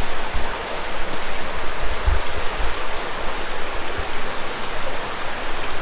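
Flowing river water running over rocks, a steady rushing hiss, with irregular low rumbles underneath.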